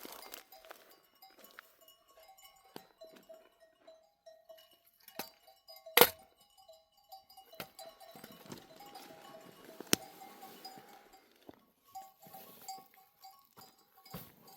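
Bells on a grazing flock of sheep clinking irregularly as the animals move. A sharp knock about six seconds in, and a lighter one near ten seconds.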